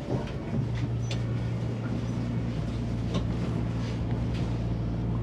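Inside a diesel passenger train's carriage: a steady low drone from the running train, with a few faint clicks and rattles.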